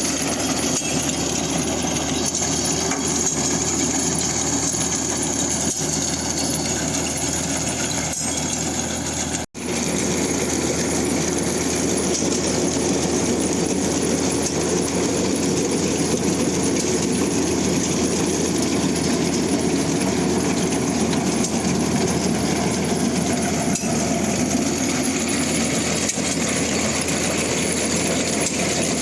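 Zetor Super 50 tractor's four-cylinder diesel engine running steadily while pulling a potato digger through the field. The sound drops out for an instant about nine seconds in.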